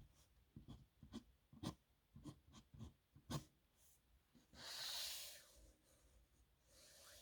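Faint scratching of a dip nib pen on paper: a run of short strokes and ticks, then one longer, louder rasp about five seconds in.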